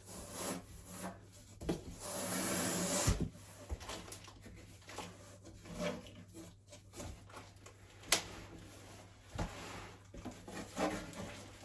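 Cardboard box being opened and its contents handled, with a long scraping rub about two seconds in and a few knocks later on.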